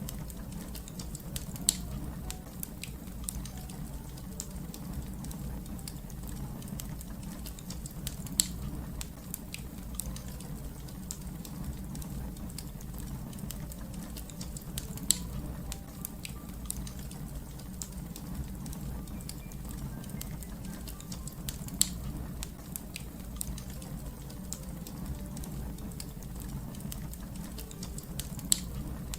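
Wood fire burning with a steady low rumble and a scatter of small crackles, and a sharp loud pop about every six to seven seconds.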